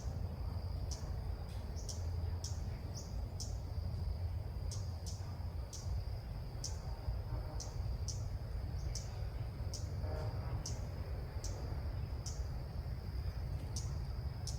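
Female ốc mít bird calling: short, high notes that each sweep downward, repeated about twice a second, the call used to lure a male into the trap. A steady thin high whine runs under the calls.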